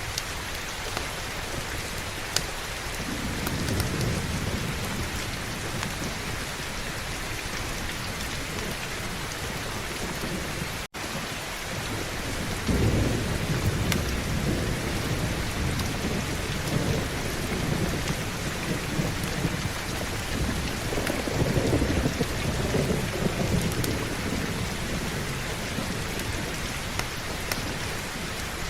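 Steady heavy rain with rolling thunder rumbling low several times, loudest in the second half. The sound cuts out for an instant near the middle.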